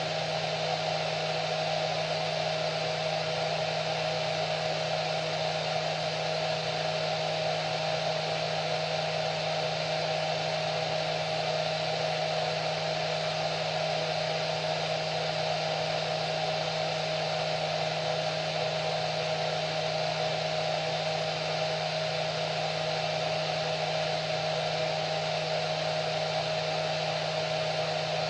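Hair dryer running steadily: an even rush of air with a constant motor hum and whine, no change in speed.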